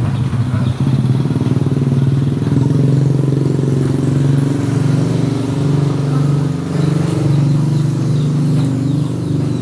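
A combustion engine running steadily at a low, even pitch, wavering only slightly.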